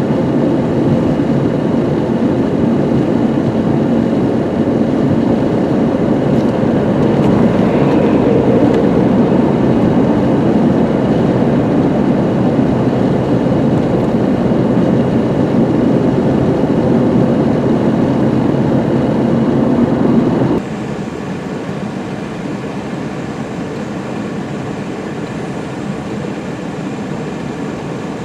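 Steady rumble of a car driving on a winter highway, heard from inside the cabin. About twenty seconds in it drops suddenly to a quieter, similar rumble.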